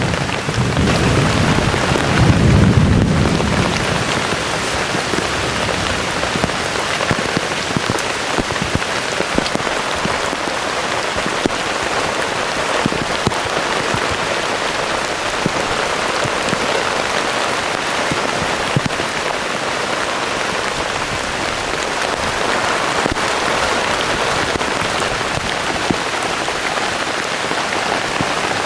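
Heavy rain pouring steadily, with sharp drop ticks scattered through it. A low rumble of thunder fades out in the first few seconds.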